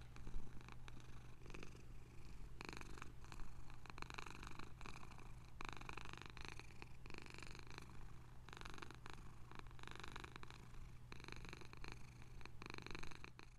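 Domestic cat purring continuously, the rumble swelling and easing in stretches of a second or two.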